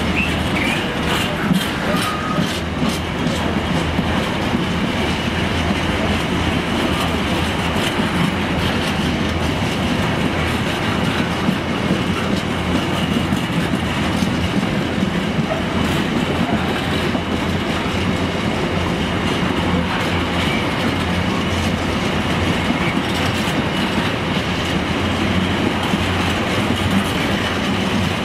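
Empty container flat wagons of a freight train rolling past at steady speed: a continuous rumble of steel wheels on rail, with scattered clicks as the wheels pass over the track.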